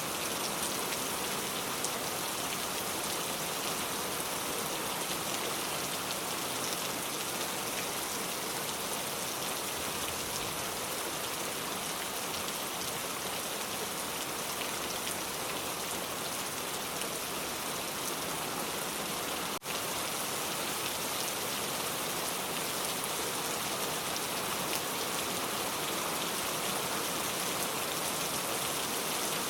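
Steady rain falling, an even hiss of many drops with no lull. A momentary dropout breaks it about twenty seconds in.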